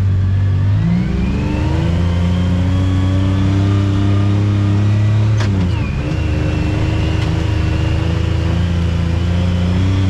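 ATV engine running under way, speeding up about a second in and then holding steady. About halfway through there is a sharp click and the engine pitch drops before it settles again.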